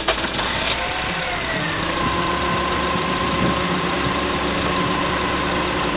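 Car engine just restarted with the air conditioning left on, the last of the starter cranking right at the start, then idling steadily. A tone falls in pitch between about one and two seconds in and then holds steady as the idle settles.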